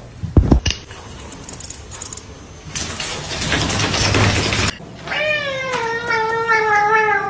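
A domestic cat giving one long, drawn-out, wavering meow that slowly drops in pitch, starting about five seconds in. Earlier there are a couple of sharp knocks about half a second in and a couple of seconds of rushing hiss.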